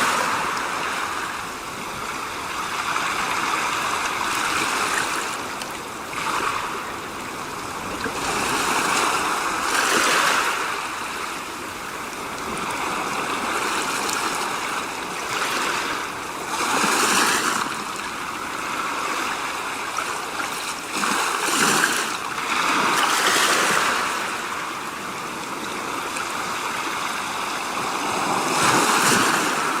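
Rushing water: a loud, steady hiss that swells and eases every few seconds.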